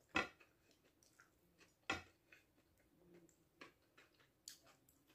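Quiet eating sounds: a person chewing, with scattered sharp clicks, the two loudest near the start and about two seconds in.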